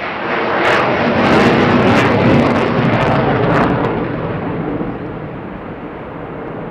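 F-16 fighter jet making a pass: jet engine noise swells about half a second in, peaks with a few sharp crackles, then fades after about four seconds.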